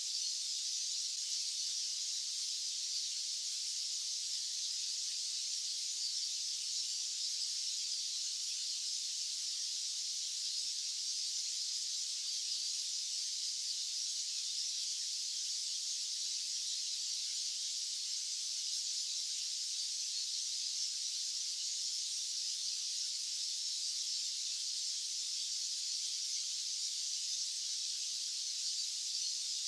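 White-noise track: a steady, high-pitched hiss with no low end, unchanging throughout.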